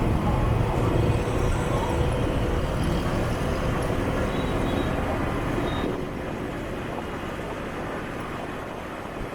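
City motorbike traffic heard from a moving scooter: a steady rumble of engines and road noise, easing a little about six seconds in.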